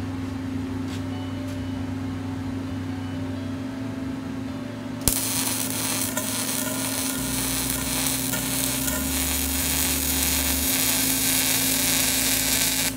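MIG welding arc on a steel auger shaft: the arc strikes about five seconds in with a sharp click, then runs as a loud, steady crackling sizzle while a pass of a multipass weld is laid. Before the arc there is only a steady low hum.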